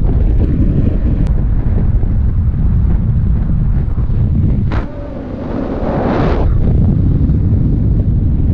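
Wind buffeting the microphone in paragliding flight, a loud steady rumble; about five seconds in a short hissing rush of air rises for a second or two.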